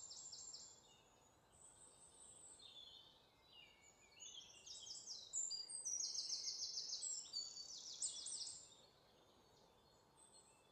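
A small songbird singing fast, high-pitched trilled phrases that change pitch from phrase to phrase. It is loudest in the middle and dies away near the end.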